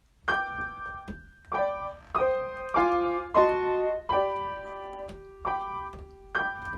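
Piano playing a short phrase of struck chords and notes, each attack sharp and then ringing out, about ten in a few seconds with a held note near the end.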